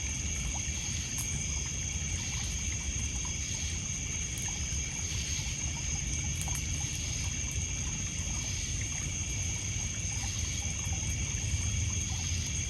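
Night ambience: a steady chorus of crickets and other insects trilling without a break, over water trickling and lapping on a pebble beach, with small scattered pops of a wood fire crackling.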